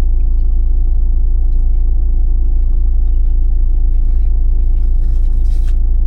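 Steady low vehicle engine rumble heard from inside the cab, unchanging in level, with faint rustles and small clicks over it.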